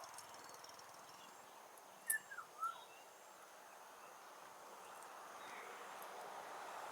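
Faint outdoor background with a quick cluster of three or four short bird chirps about two seconds in.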